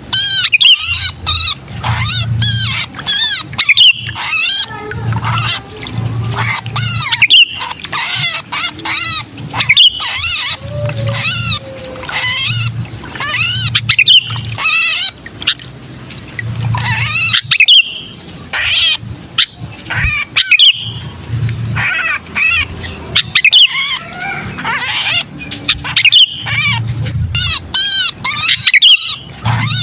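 Sooty-headed bulbuls giving the 'kejepit' distress call of a pinched or trapped bird: dense, harsh, rapid chattering calls repeated almost without pause, the sound used to lure wary bulbuls down. Low rumbling bursts come and go underneath every second or two.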